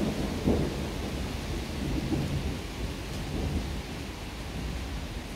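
Heavy downpour of rain hissing steadily, with a low, uneven rumble underneath.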